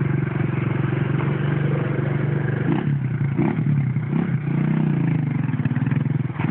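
A vehicle engine running steadily, its pitch wavering briefly about two-thirds of the way through.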